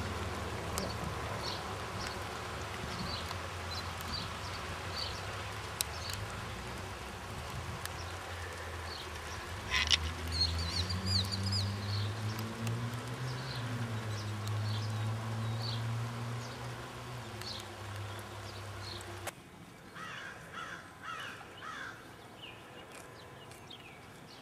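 Small birds chirping in the background over a steady low hum, with a deeper drone that rises and falls in pitch for several seconds in the middle. After a cut near the end the hum drops away and the birdsong stands out more clearly.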